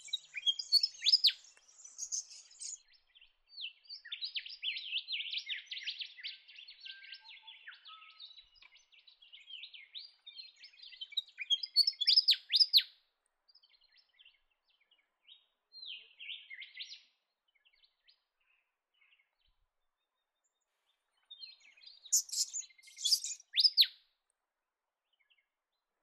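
Little lorikeets calling: high, shrill, buzzy screeches in rapid bursts. The calls go on densely for about half the time, thin out, stop for a few seconds, then come back in one loud burst near the end.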